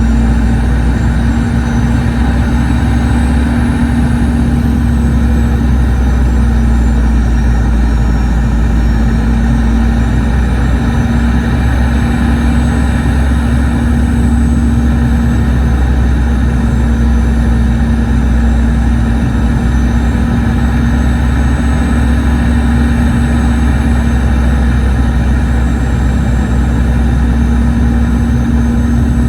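Boeing 717's tail-mounted Rolls-Royce BR715 turbofan engines heard inside the rear of the cabin: a loud, steady rumble and hum with a faint high whine that wavers slightly.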